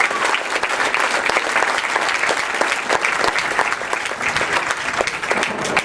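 Stadium crowd applauding and cheering for an award announcement, dense clapping that eases off slightly near the end.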